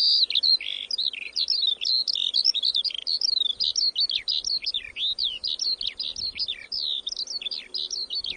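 Small birds chirping and twittering in a dense, continuous run of quick, high, sliding notes.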